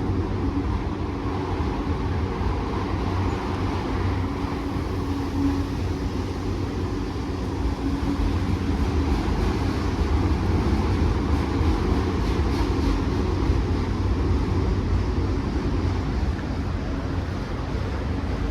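Long freight train's cars rolling slowly past, a steady rumble of wheels on rail.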